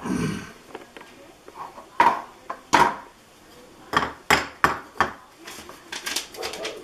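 Wooden birdhouse kit pieces knocking and clacking together as they are handled and fitted, about eight irregular sharp knocks with short pauses between them.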